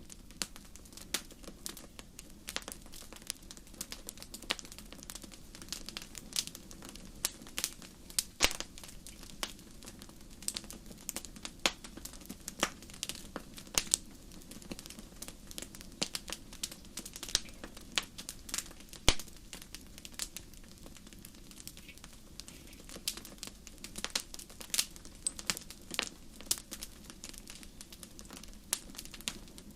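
Wood fire crackling in a fireplace: irregular sharp pops and snaps, one every fraction of a second, over a steady low rumble of the flames.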